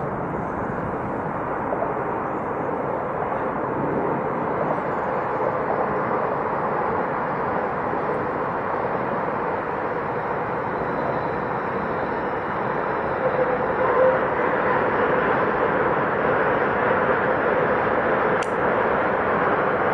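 Steady distant rushing of high-speed trains running on elevated viaducts, growing a little louder about two-thirds of the way in.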